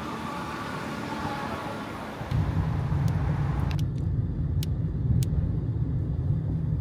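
A motor vehicle running with a steady low rumble, which grows louder about two seconds in. A few sharp clicks follow.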